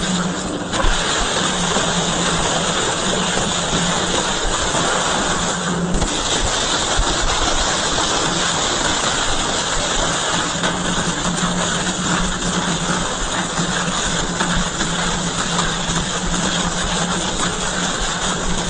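Double-shaft metal shredder running, a steady hum under a constant dense noise of material being torn up, with brief dips about half a second and six seconds in.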